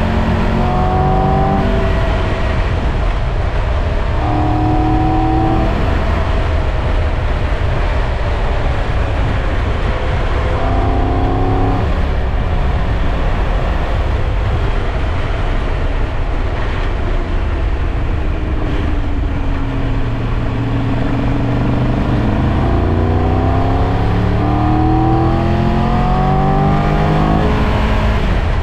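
Triumph Tiger 1200 Rally Pro's three-cylinder engine under way, its revs climbing and dropping with several quick steps in pitch as it changes gear, over a steady low rush of wind and road noise.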